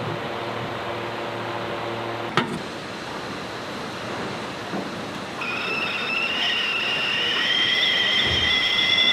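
Steady rushing noise of a racing yacht under way, with a low machinery hum at first; about halfway through, a high whine starts, rises slowly in pitch and grows louder.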